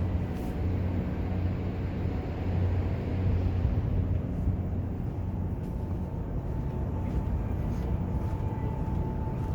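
Steady low hum and rush of the Costa Favolosa cruise ship's machinery and ventilation on deck. A faint steady tone joins about six seconds in.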